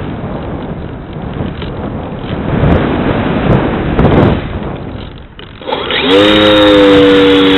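Loud wind rush over the wing-mounted camera's microphone as the RC plane flies. It dips briefly, and about six seconds in it gives way to the steady pitched whine of the plane's electric brushless motor and propeller.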